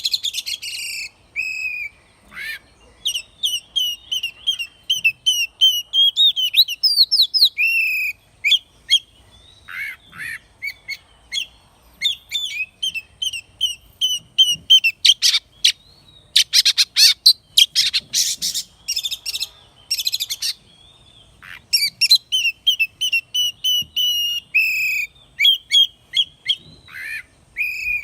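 Oriental magpie-robin singing: long runs of quick, clear whistled notes, with a stretch of harsher, scratchy notes about midway.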